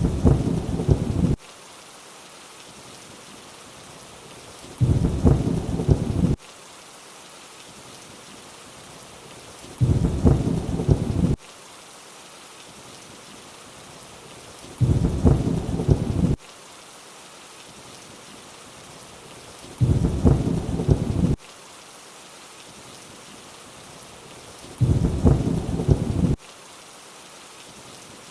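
Steady rain hiss with a short, loud thunder rumble about every five seconds, six in all. Each rumble lasts about a second and a half and starts and stops abruptly, evenly spaced like a repeating loop.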